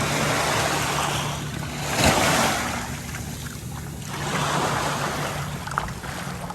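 Small waves washing in and out on a sandy beach, the rush swelling and fading a couple of times, with wind buffeting the microphone.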